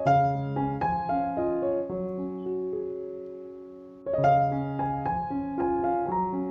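Background piano music: a gentle melody of struck notes over chords. About halfway through, a held chord slowly fades, and the phrase starts again about four seconds in.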